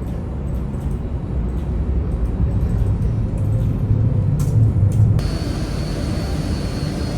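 A steady low rumble of a running vehicle or engine. About five seconds in the sound changes abruptly and a faint high whine comes in.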